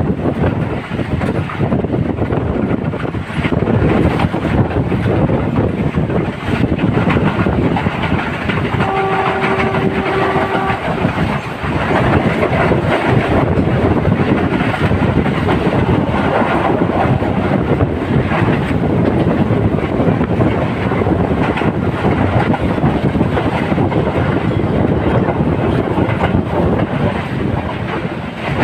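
Train running on the rails with steady rumble and wheel clatter. About nine seconds in, the train's horn sounds one steady note for about two seconds.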